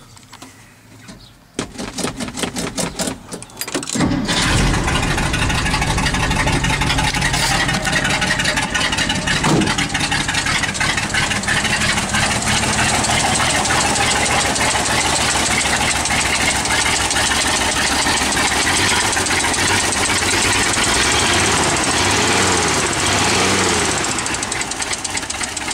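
Studebaker 245 Commander inline six cranked by the starter for a couple of seconds, catching about four seconds in on a cold start and settling into a steady run. Near the end it is revved up and down a few times. The owner notes a little exhaust leak.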